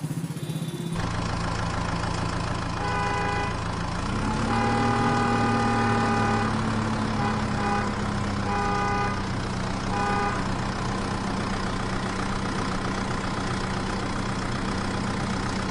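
Cartoon vehicle sound effects: an engine starts up about a second in and keeps running, rising a little in pitch near four seconds. A horn toots about five times over it, mostly short honks with one long one of about two seconds.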